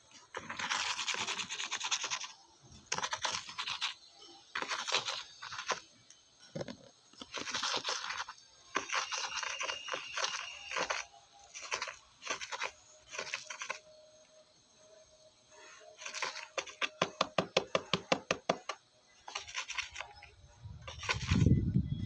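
Dry rice grains scraped and rustled by a parrot's beak, in repeated bursts of a second or two with short pauses between, and a quick run of clicks, several a second, about three-quarters of the way through. A louder, lower sound starts near the end.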